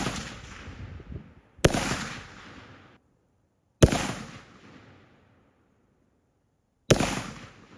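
Gunshots: three sharp shots spaced two to three seconds apart, each followed by a fading echo, with the tail of another shot at the very start.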